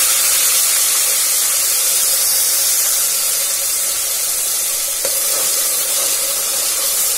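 Ground onion paste sizzling in hot oil in an aluminium pressure cooker: a loud, steady hiss as the water in the fresh paste boils off in a cloud of steam.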